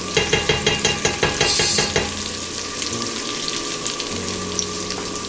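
Blended turmeric spice paste sizzling as it is sautéed in oil over medium-high heat in a stainless steel pot, with a wooden spatula scraping and stirring it over the first two seconds. The sizzle swells briefly about a second and a half in.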